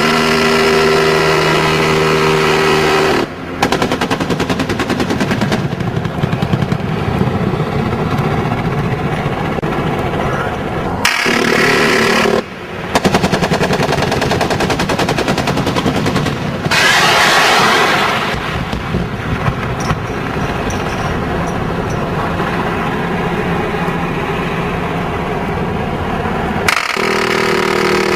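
Apache attack helicopter's 30 mm chain gun firing long bursts of rapid automatic fire. Between the bursts, near the start, around the middle and near the end, there is a steady whine.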